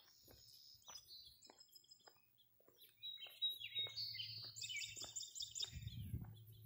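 Small birds chirping and trilling in several short, high calls, busiest in the second half, with a faint low rumble setting in about halfway.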